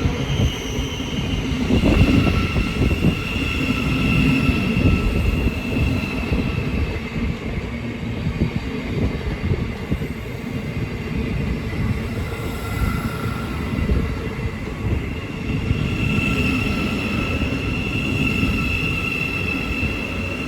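Thameslink Class 700 electric multiple unit at low speed in the platform: a steady low rumble with a thin, steady high whine that fades and comes back.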